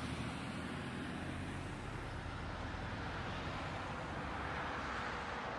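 Steady vehicle and road noise: an even rumble and hiss with a faint low engine hum, unchanging throughout, with no impacts or other sudden sounds.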